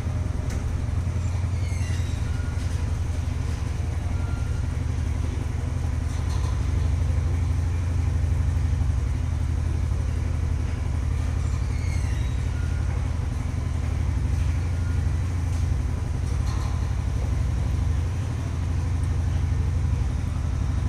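A steady low rumble of an engine running, like an idling vehicle. Faint short high squeaks come now and then.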